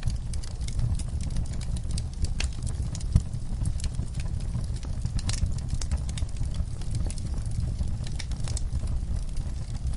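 Wood fire burning in a fireplace: a steady low rumble of flames with irregular crackles and snaps, one sharper pop about three seconds in.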